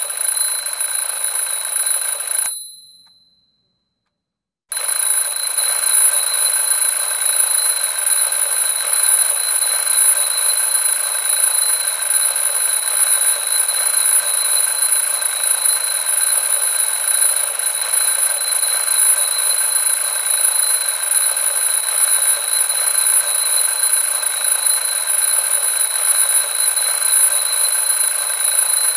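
An alarm ringing continuously, a harsh, steady, high-pitched ring. About two and a half seconds in it fades out, stops for about two seconds, then cuts back in abruptly and carries on unchanged.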